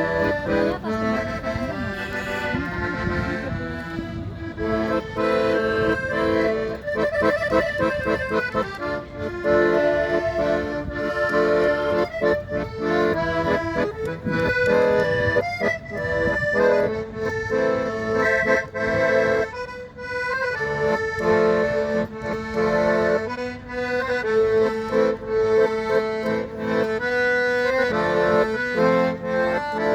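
Accordion music: a melody played over sustained reed chords, with a passage of quick repeated notes about a quarter of the way in.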